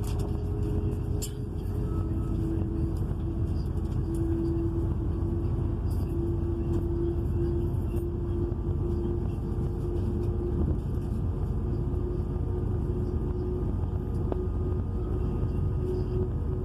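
Inside the passenger saloon of a Class 222 diesel-electric multiple unit under way: a steady low rumble from the underfloor diesel engines and the running gear, with a held hum over it.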